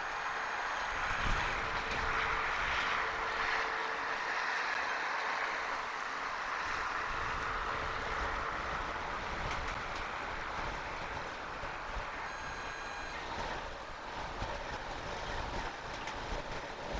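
Strong storm wind on an outdoor webcam microphone: a steady rushing hiss with uneven low buffeting rumbles.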